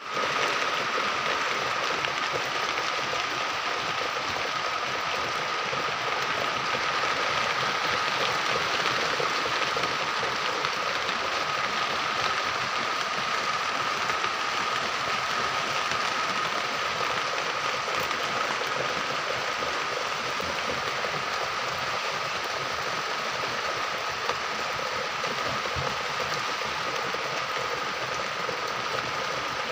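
Rain falling steadily, an even hiss of drops on leaves and hard surfaces. A thin, steady high tone runs underneath throughout.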